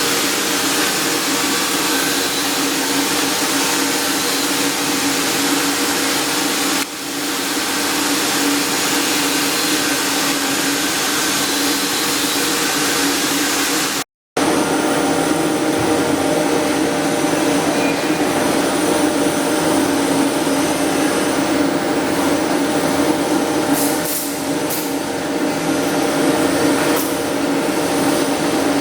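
Flux-cored arc welding on carbon steel pipe: the arc gives a steady, loud hiss over a steady hum, dipping briefly twice, with a short cut to silence a little after halfway.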